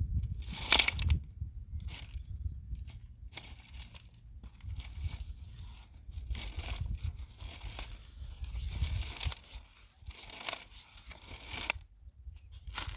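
Irregular rustling, crinkling and crunching handling noises, with a low rumble underneath.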